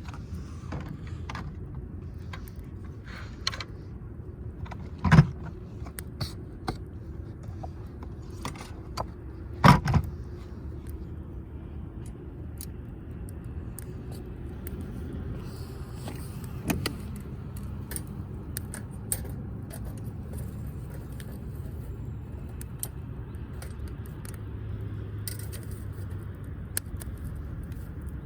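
Wood fire burning in a metal firewood grill, with scattered crackles and clicks and two louder knocks about five and ten seconds in, over a steady low rumble.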